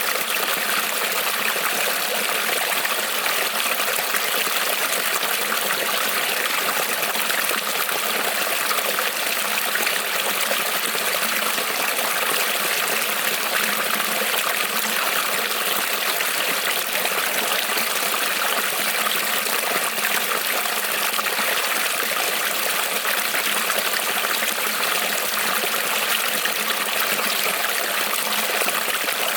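Small creek rippling and trickling over stones, a steady, even rush of water.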